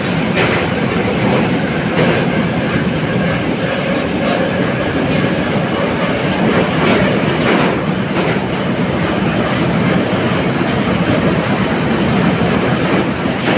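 Type 81-717.5 metro car running at speed, heard from inside the car: a loud, steady rumble and rush of wheel-on-rail noise, with a few clicks of wheels passing over rail joints.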